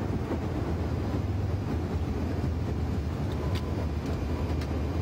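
Steady low rumble of engine and airflow noise in an Airbus A340's cockpit during the initial climb at takeoff thrust, with a few faint clicks.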